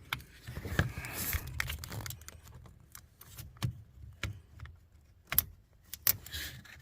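Scattered light clicks, knocks and rattles of plastic wiring-harness keeper clips being handled and pressed back down into place, with some rustling early on.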